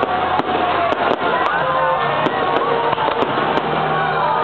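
Aerial fireworks going off in a string of sharp bangs and crackling, roughly two reports a second, over music playing throughout.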